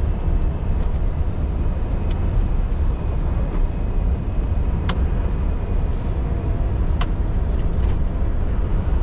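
Scania R620's 16-litre V8 diesel engine running steadily as the truck drives, a deep, even drone heard from inside the cab. A few sharp clicks cut through it, about two, five and seven seconds in.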